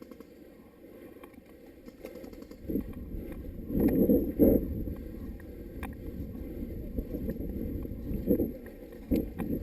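Muffled rubbing and rumbling noise on a body-worn GoPro's microphone, swelling several times, with a few faint clicks.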